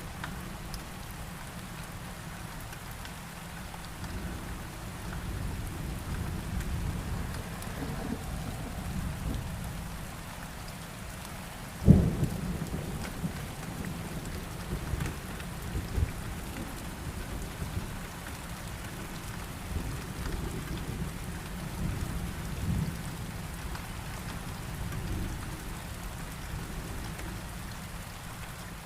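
Heavy rain falling steadily under rolling thunder that swells and fades. A sharp thunderclap about twelve seconds in is the loudest moment, followed by a few smaller cracks, and the sound fades out near the end.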